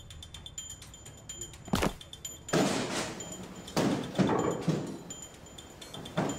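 A sharp knock, then a few heavier thumps, each followed by a short noisy scrape or rustle, like a door or furniture being handled.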